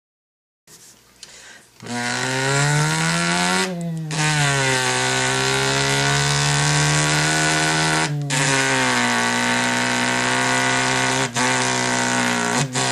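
A man imitating a car engine with his mouth: a buzzing vocal drone that rises in pitch like a rev, falls back and holds steady, broken by short breaks about four, eight and eleven seconds in.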